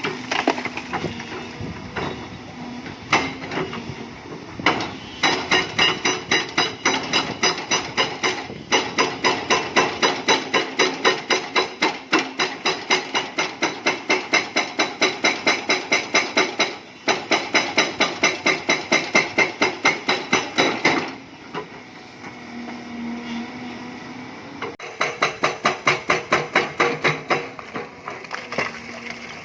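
Hydraulic breaker on an excavator hammering limestone in long runs of rapid, evenly spaced blows, about three a second, over the steady running of the machine's engine. It stops twice, leaving the engine alone, then starts again.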